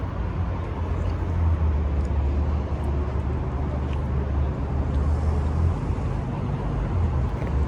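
Steady low rumble of vehicle engines and traffic, with no single event standing out; the rumble eases briefly about six seconds in.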